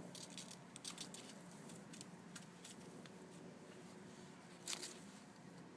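Faint scattered clicks and taps, with a louder one about four and a half seconds in, over a steady low hum.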